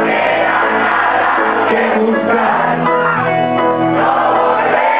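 Reggae band playing live: a steady, loud stretch of the song between sung lines.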